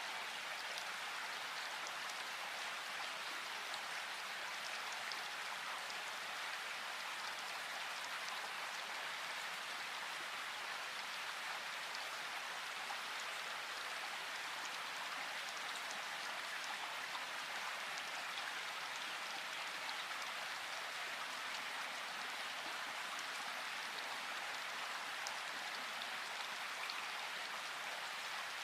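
Steady rain falling in a forest, an even hiss of rainfall with scattered small drop ticks.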